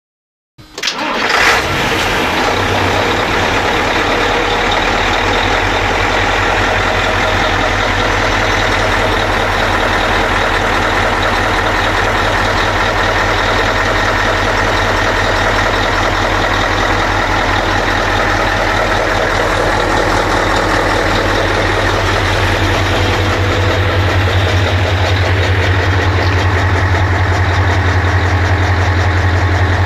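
Scania 143H truck's 450 hp V8 diesel engine starting about half a second in, flaring up briefly, then settling into a steady idle that grows slightly louder near the end.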